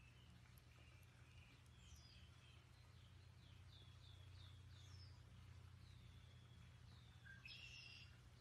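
Faint outdoor birdsong: small birds chirping and whistling, with a quick run of about five falling notes a few seconds in, over a low steady hum.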